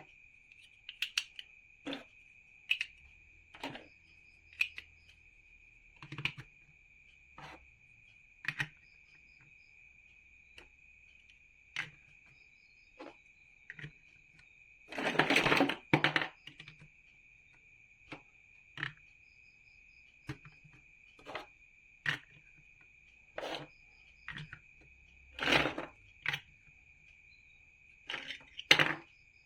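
Plastic building bricks being handled and pressed together: scattered sharp clicks and taps, with a longer rattle of pieces about halfway through. A faint steady high whine runs underneath.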